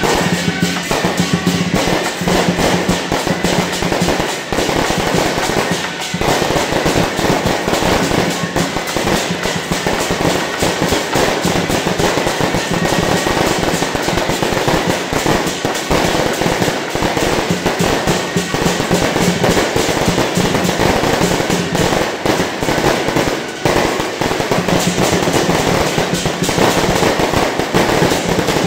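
Firecrackers and fireworks going off in a dense, continuous string of rapid bangs, with music playing underneath.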